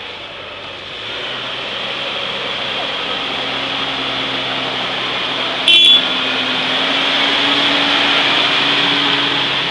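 A vehicle engine running steadily as it draws near, growing louder, then easing off near the end, with a brief loud tone a little past halfway.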